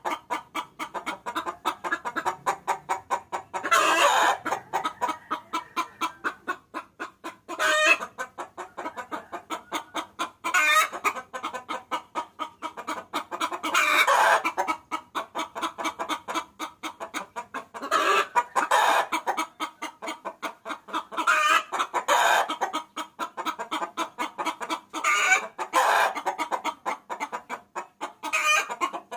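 Hen cackling: a fast, unbroken run of clucks, several a second, rising every three or four seconds into a louder cackle. It is a hen's call used as a lure to draw roosters.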